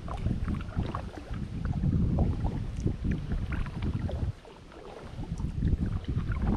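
Kayak paddle dipping and splashing in the water with trickles and drips, over wind rumbling on the microphone; it goes quieter for a moment about two-thirds of the way through.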